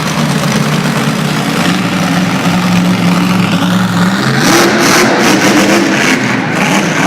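Monster truck engine running loudly and revving, its pitch climbing about four and a half seconds in.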